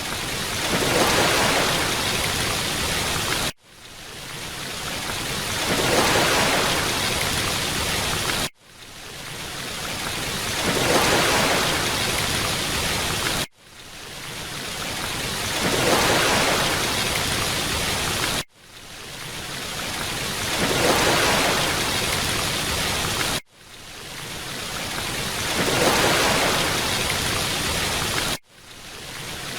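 Steady rush of falling water, a short ambience loop that cuts out abruptly and swells back up about every five seconds.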